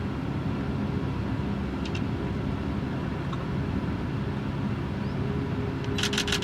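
Steady low rumble of vehicle engines. Near the end comes a quick run of about six sharp clicks.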